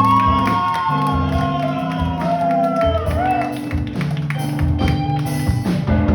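Live band music with guitar chords and a bass line. A long lead melody note is held for about three seconds and bends downward near the end.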